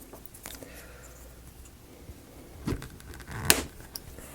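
Small wooden model pieces being handled, giving a few faint clicks and then two sharp knocks a little under a second apart, the second the louder.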